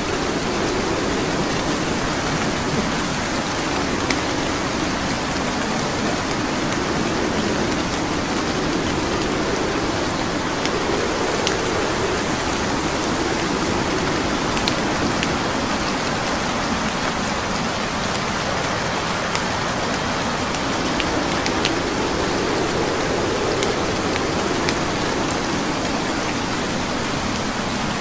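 Steady rain with a wood fire crackling: scattered sharp snaps of burning logs over the even rush of the rain.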